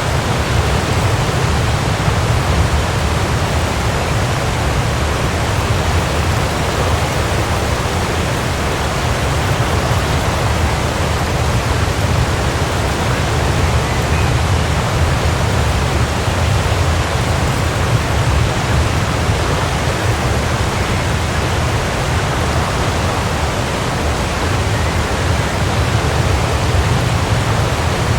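Waterfall: water falling and crashing in a steady, unbroken rush with a deep low rumble.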